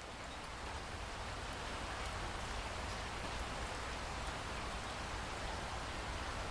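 Steady rainfall, an even hiss of many drops, growing louder over the first two seconds and then holding steady.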